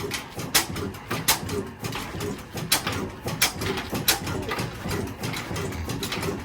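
Slow-speed stationary diesel engine running steadily, with sharp knocks or clicks coming through every half second to a second.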